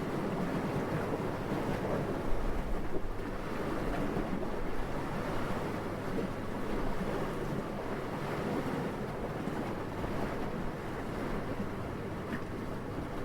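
Gentle, steady wind: a low, even rushing noise that swells briefly louder about two seconds in.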